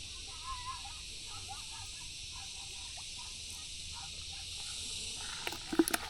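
Faint bird calls, short and wavering, over a steady high hiss of outdoor background. A few sharp knocks come near the end and are the loudest sounds.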